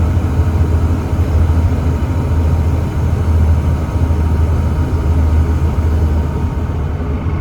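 Volvo D7C 7.3-litre diesel engine of a Volvo B7TL double-decker bus running with a steady low drone that rises and dips slightly.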